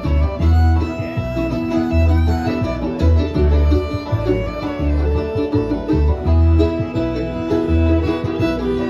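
An acoustic bluegrass string band plays an instrumental break, with fiddle, guitar and banjo over a steady low bass note on the beat.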